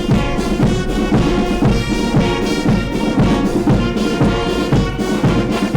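Brass band music with a steady drum beat, in the manner of a military band playing at a naval ceremony.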